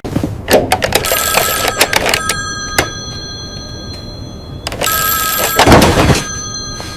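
A bell-type telephone ringing: two long rings, each a rapid clatter of strikes followed by a steady metallic tone.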